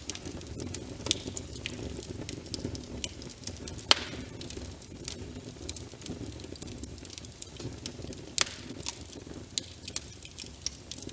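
Wood fire crackling in a fireplace: irregular sharp pops and snaps, the loudest about four seconds and eight and a half seconds in, over a steady rush of rain.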